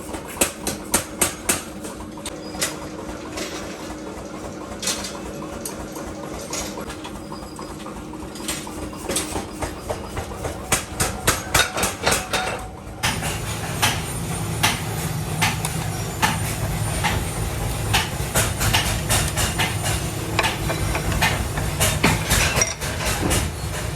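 Workshop machinery running with a steady hum, with repeated sharp metal knocks, a few a second. About halfway through the sound changes abruptly and the low hum gets louder.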